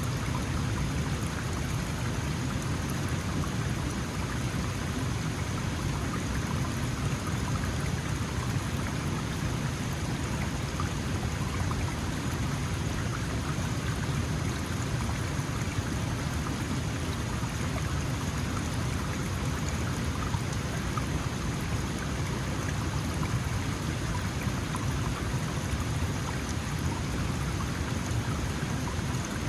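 Small mountain stream flowing, a steady even rush and burble of water.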